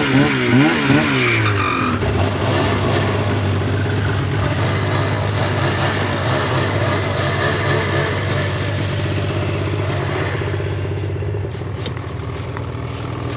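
Snowmobile engine running under way, its pitch wavering up and down for the first couple of seconds as the throttle is worked, then holding steady before easing off slightly near the end.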